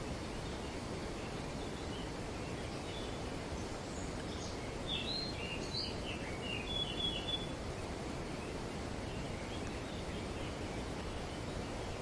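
Steady rushing noise of wind moving through tree foliage, with a short spell of high bird chirps and calls about five to seven seconds in.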